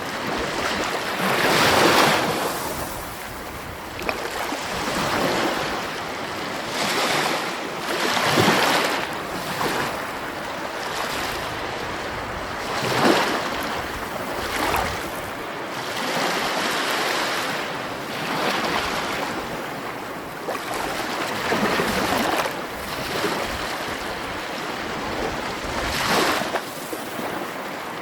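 Sea waves washing in: a continuous hiss of surf that swells into louder surges every few seconds.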